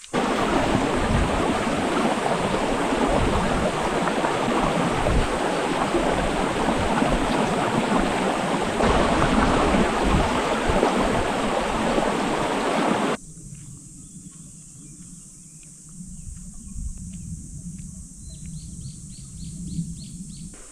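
Rushing stream water, a loud, even rush that cuts off suddenly about thirteen seconds in. A quieter outdoor background follows, with a bird's rapid chirping trill near the end.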